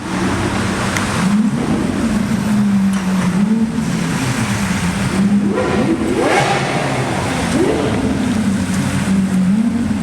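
Sports car engine idling and blipped several times, each rev rising quickly and falling back, the sharpest about six seconds in.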